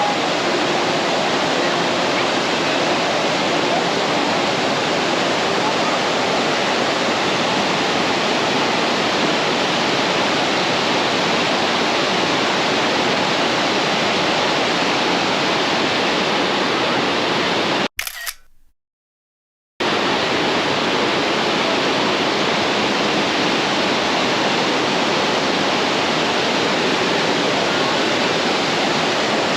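Waterfall rushing: a dense, steady roar of falling water that drops out into silence for about two seconds around two-thirds of the way through, then resumes unchanged.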